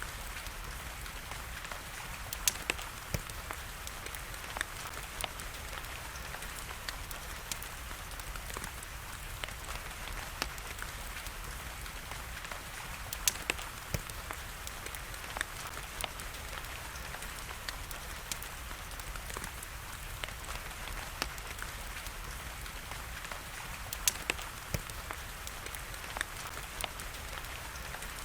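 Wood fire crackling, with sharp irregular pops, over a steady hiss of falling rain.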